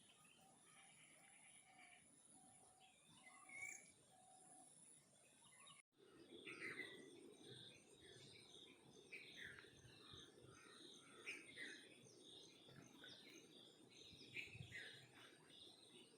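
Faint wild birds chirping and calling, with a steady high insect drone behind them. The audio cuts about six seconds in, after which many birds chirp at once.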